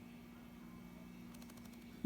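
Near silence over a steady low hum, with a quick run of faint clicks about one and a half seconds in: an Indian Ringneck parrot's beak picking at a wooden chew toy.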